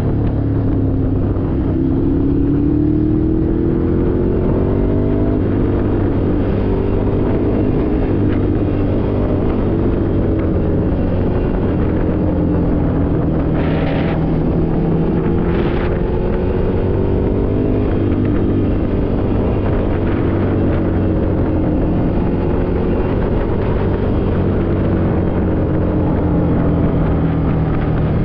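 Ducati Scrambler Desert Sled's air-cooled 803 cc L-twin engine running under way, its pitch climbing several times as it accelerates, with wind noise on the microphone. Two short bursts of noise come about halfway through.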